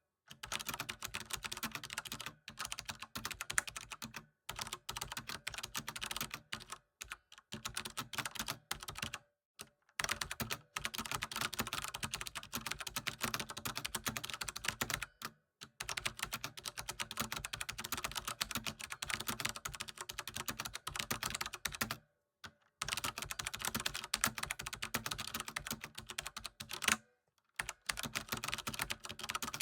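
Computer keyboard being typed on: fast, continuous key clicks in runs of a few seconds, broken by brief complete pauses.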